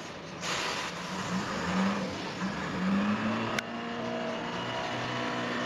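An engine running under load, its pitch wavering and then rising to a steady higher run, with one sharp knock about three and a half seconds in.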